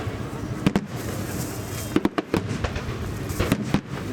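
Aerial fireworks shells bursting: sharp bangs about a second in, then quick clusters of several bangs around two seconds and three and a half seconds in.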